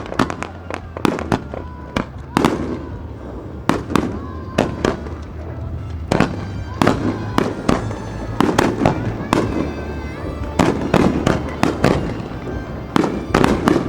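Fireworks bursting overhead in a rapid, irregular barrage of sharp bangs and crackles, thickest near the middle and toward the end, with music playing underneath.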